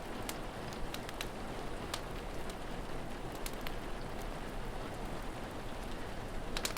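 Steady rain, with scattered sharp crackles and pops from a wood fire, a few of them close together near the end.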